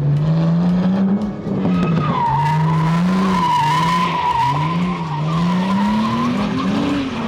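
Drift car engine revving hard, its pitch climbing and dropping about once a second, while the rear tyres squeal from about two seconds in to near the end.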